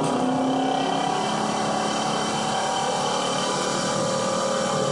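Ford 460 big-block V8 of a 1977 F-350 pickup running steadily, a droning engine note that holds nearly constant pitch.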